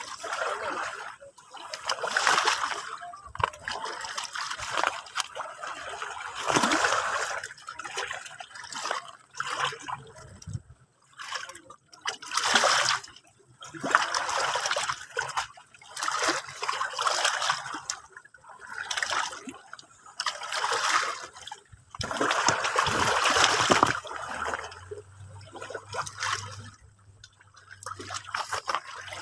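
Small sea waves splashing and lapping, in irregular washes that swell and fade every one to three seconds.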